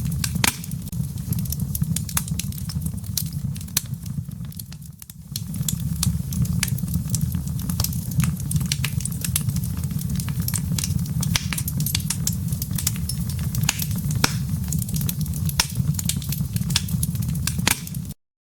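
Fireplace wood fire crackling, with frequent sharp pops and snaps over a low steady rumble. It dips briefly about five seconds in and cuts off suddenly just before the end.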